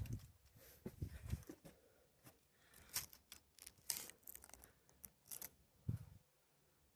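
Footsteps on a forest trail, with soft low thuds and irregular crunchy crackles underfoot, quiet and uneven.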